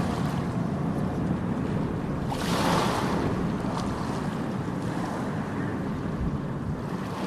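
Wheels of a Carlton suitcase on its new Boeing Style chassis rolling fast over hard ground: a steady rumble, with a louder, brighter stretch about two and a half seconds in.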